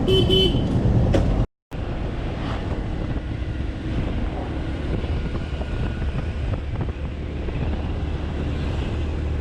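Motorcycle riding at highway speed: a steady low engine and road rumble with wind buffeting the microphone. The sound cuts out completely for a moment about a second and a half in.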